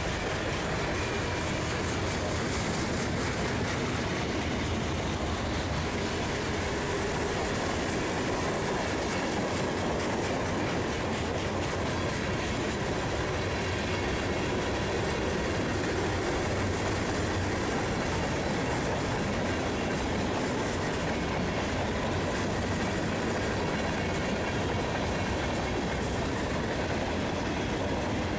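Freight cars of a long manifest train rolling steadily past, steel wheels clicking and rumbling over the rail.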